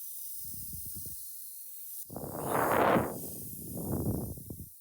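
Mist spray bottle hissing out spray in two bursts, the first louder, after a softer crackle about half a second in.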